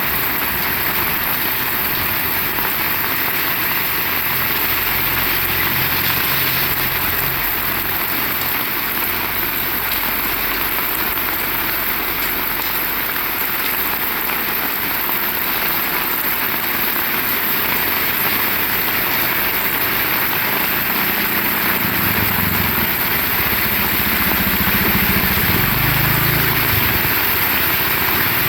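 Heavy rain falling steadily and hard on the surfaces around, an even hiss throughout. A low rumble comes in briefly several seconds in and again, louder, about twenty seconds in.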